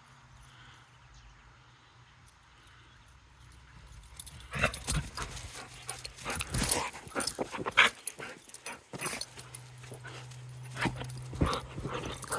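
A pet dog playing roughly. After about four quiet seconds comes a rapid, irregular jumble of scuffling, knocks and short dog noises that goes on to the end.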